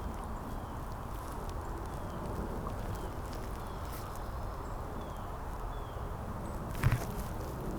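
Outdoor ambience of steady low rustling noise with a few faint, short bird chirps, and one sharp knock about seven seconds in.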